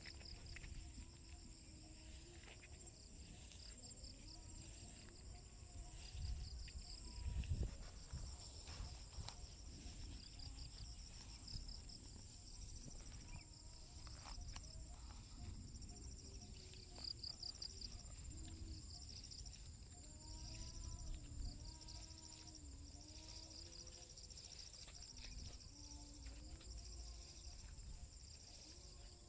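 Countryside insects calling: one steady high-pitched buzz with rapid pulsing chirps just below it. A few soft low thumps come about six to eight seconds in.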